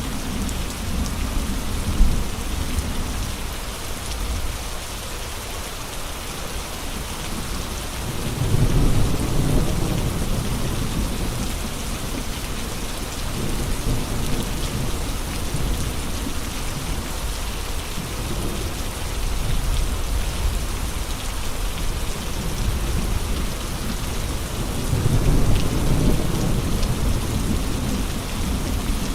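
Steady heavy rain and gusting wind, a continuous hiss. A deep, low rumbling surge swells up twice, about eight seconds in and again near the end.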